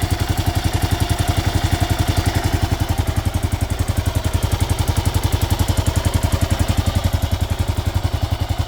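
Kawasaki KLR650 single-cylinder four-stroke idling warm, a steady fast run of firing pulses with a ticking from the top end that comes and goes. The owner traces the tick to Kawasaki's automatic compression release (KACR) system.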